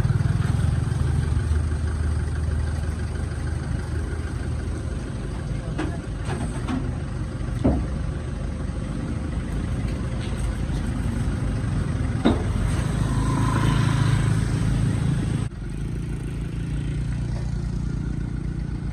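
An engine running steadily at a low, even drone, with two sharp knocks, one about eight seconds in and one about twelve seconds in. The drone changes abruptly about three-quarters of the way through.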